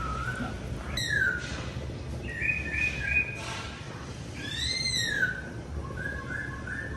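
Birds calling: short whistled notes repeated in quick runs, a downslurred call about a second in, and a louder arching call that rises and falls past the middle.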